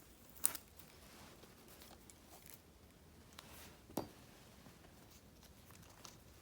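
Quiet handling of paper and stickers in diary decorating: small rustles and ticks, with two sharper clicks, about half a second in and again about four seconds in.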